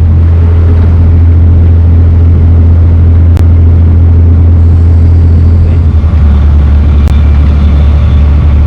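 Dutch barge's engine running under way, a loud steady low drone whose pitch shifts slightly about six seconds in, with two brief clicks.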